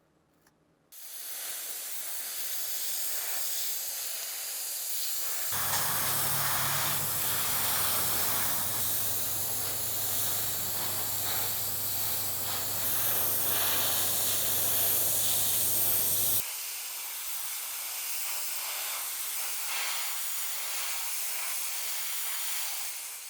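Steady spraying hiss. A low, steady motor hum joins it about five seconds in and cuts off suddenly about eleven seconds later, while the hiss goes on.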